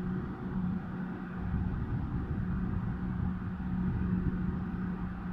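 Southern Class 455 electric multiple unit coming into the platform: a low rumble that builds slightly about a second and a half in, over a steady low hum.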